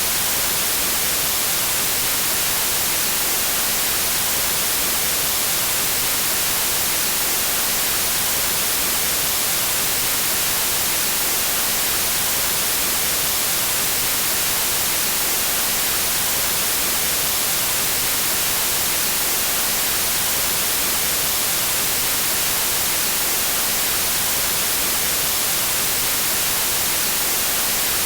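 Pure white noise: a steady, even hiss, unchanging throughout, with most of its energy in the highs.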